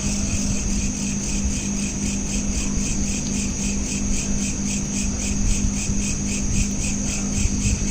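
Crickets chirping in a fast, even pulse, about four or five chirps a second, over a steady low hum.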